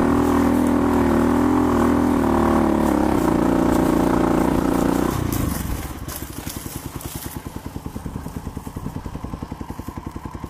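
Small 70 cc four-stroke dirt bike engine running at steady part throttle. About five seconds in, the revs drop off and it settles to a quieter, evenly pulsing idle.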